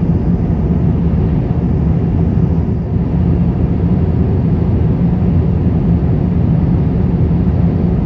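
Steady low drone of an Airbus A350-1000 airliner in flight, its engines and airflow heard as unbroken cabin noise with a constant low hum.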